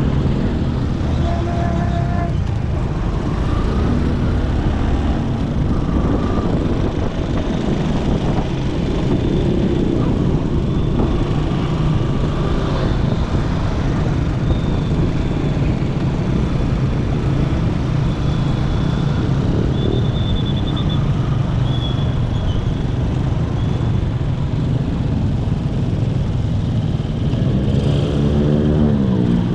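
Motorcycle riding along a road: engine running with steady road and traffic noise. Near the end the engine note dips and then climbs again.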